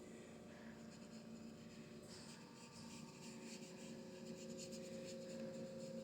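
Faint scratchy strokes of a paintbrush working acrylic paint on canvas, getting busier about two seconds in, over a faint steady hum.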